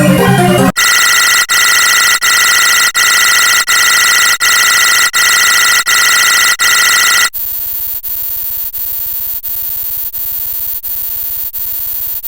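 Synthesized electronic tone repeating about every 0.7 seconds, like a looping ringtone. About 7 seconds in it switches to a quieter, buzzier tone on the same beat.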